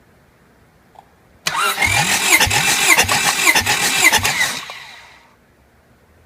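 Starter motor cranking a Honda F23A 2.3-litre inline-four for a compression test, with no firing. It starts abruptly, whirs with a rhythmic pulsing about twice a second as the cylinders come up on compression, and winds down after about three seconds.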